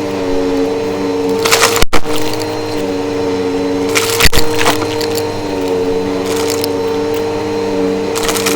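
Vacuum cleaner running with a steady motor hum. It crackles in short bursts about every two to three seconds as it sucks up crunchy debris from the floor.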